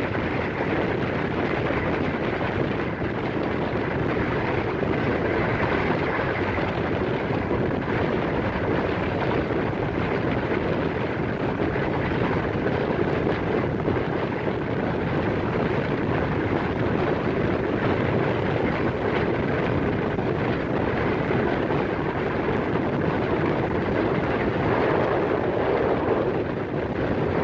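Passenger train running along the track: a steady rush and rumble of wheels and moving air with no clear rhythm, dipping briefly near the end.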